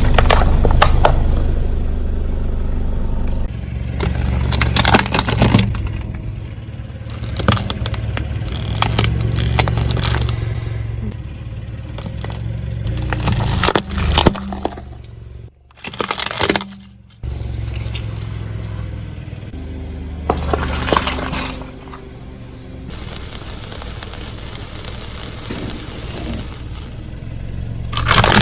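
A car's tyres roll slowly over objects and crush them: repeated cracks and crunches over the low rumble of the car, in several short takes that start and stop abruptly.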